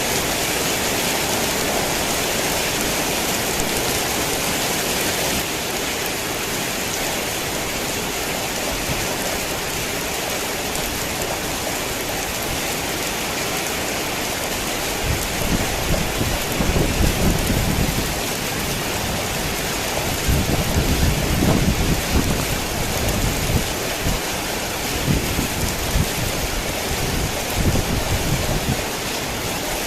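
Heavy rain falling steadily, with low rumbles of thunder rolling in from about halfway through and returning several times.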